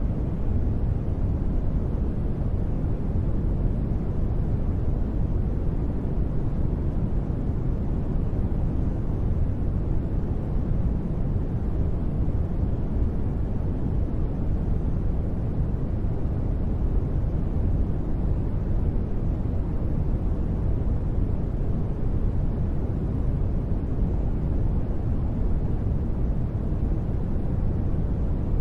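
Continuous sleep noise, sold as white noise, running steady and unchanging with no sudden sounds. Most of its weight is in the low end, so it comes across as a deep, even rush rather than a bright hiss.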